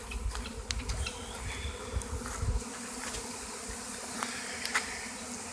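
A swarm of tens of thousands of honey bees humming steadily, a dense buzz from many wingbeats at once. A low rumble on the microphone runs through the first two and a half seconds, with scattered short clicks.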